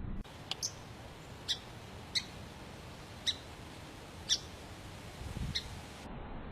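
A songbird giving short, high chirps, single or in quick pairs, about one a second over a faint steady hiss.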